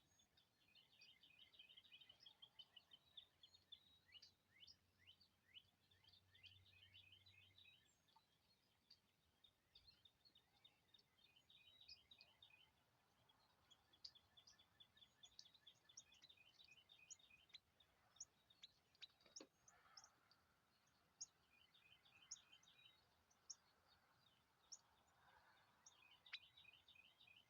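Faint songbirds chirping and trilling: rapid runs of short high notes and scattered sharp chirps, stopping and starting throughout.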